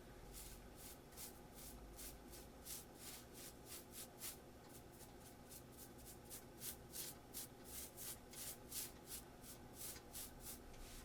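Faint, rhythmic scratching strokes, about three a second, as of something being rubbed or scraped by hand, coming faster from about two seconds in.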